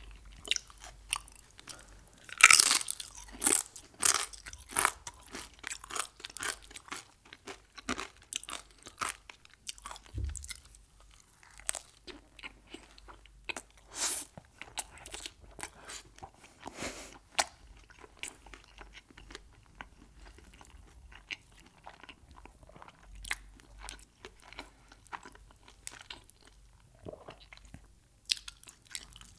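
Close-miked biting and chewing of crunchy Mexican food. A loud crunching bite comes about two and a half seconds in, followed by a quick run of crisp crunches, then slower, sparser chewing crunches.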